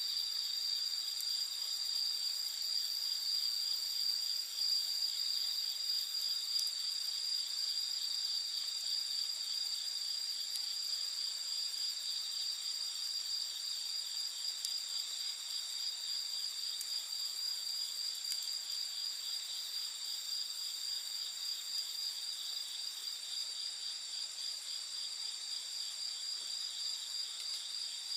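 A steady night chorus of crickets and other insects, high-pitched and continuous, with a few faint crackles from a campfire.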